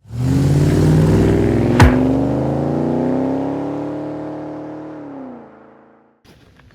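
A car engine revving up and holding, its pitch sagging as it fades out over a few seconds, with one sharp crack about two seconds in.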